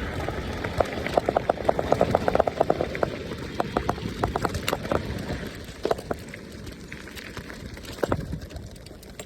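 E-bike ridden along a trail: wind on the microphone and tyre noise, with a quick run of clicks and rattles from about one to three seconds in that thins out afterwards.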